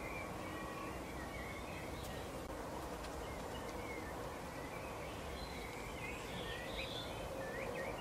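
Small birds chirping and twittering faintly in short scattered notes, busier in the second half with a few sharp chirps near the end, over a steady background hiss and low hum.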